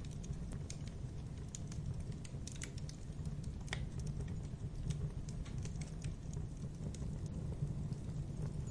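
Logs burning in a fireplace: a steady low rumble of the fire with irregular sharp crackles and pops, one louder pop a little before the middle.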